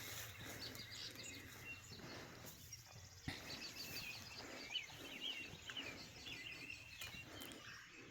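Faint chirping and twittering of small songbirds, many short calls overlapping, over a steady outdoor background hiss.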